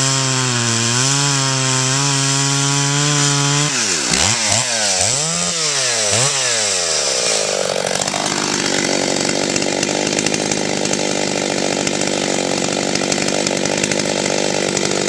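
Husqvarna 61 two-stroke chainsaw running: it idles steadily for a few seconds, is then revved up and down several times, and from about eight seconds in is held at high revs. The saw keeps running without stalling.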